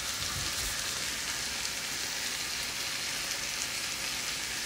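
Marinated chicken leg pieces sizzling steadily in a frying pan with a little olive oil.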